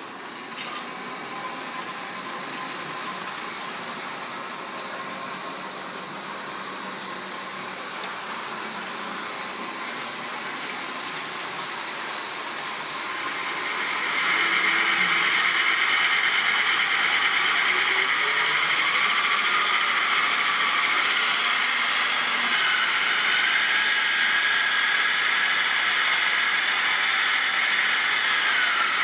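Model railway train running on the track: a steady whine from the locomotive's electric motor and the clatter of wheels on the rails. It gets louder about halfway through and stays loud, with the motor's pitch shifting up and back down near the end.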